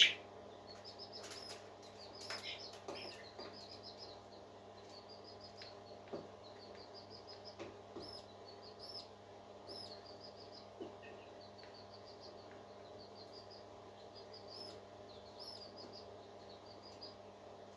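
Parakeets chirping in quick repeated runs of short high chirps, over a steady low hum.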